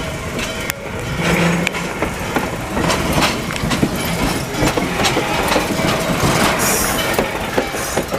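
Train cars rolling past, their wheels clicking and knocking over the rail joints in a steady stream of clicks, with a brief hiss about seven seconds in.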